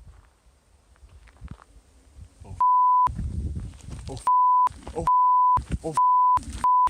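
Censor bleeps: a steady one-tone beep cutting in five times in the second half, each about half a second long, over a person shouting, the bleeps covering swear words.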